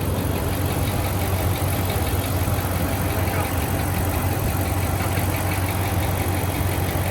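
Dodge Ram Hemi V8 idling steadily, with a fast light ticking over the engine hum; a lifter noise, traced to failed needle bearings in an MDS lifter, that was fading as the engine warmed.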